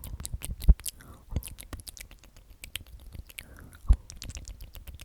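Close-miked ASMR mouth sounds: quick wet clicks and smacks of a whispered, repeated 'omnomnom', with a few soft breathy whispers. Two low thumps stand out, one under a second in and one at about four seconds.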